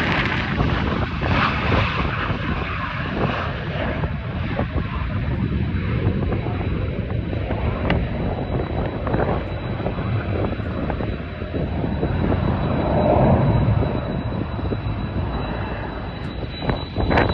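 Jet airliner's engines running loud as the aircraft passes, over wind buffeting the microphone.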